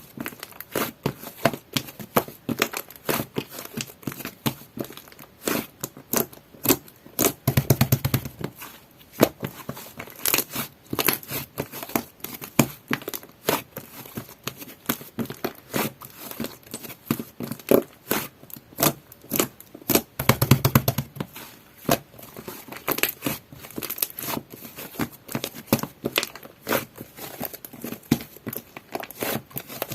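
Soft butter slime being squished, pressed and stretched by hand: a dense, irregular run of small sticky clicks and crackles, with two longer, deeper squelches about eight and twenty-one seconds in.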